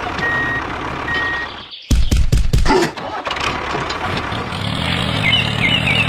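A vehicle engine running, with a sudden loud low burst about two seconds in, then a steady low rumble. Birds chirp near the end.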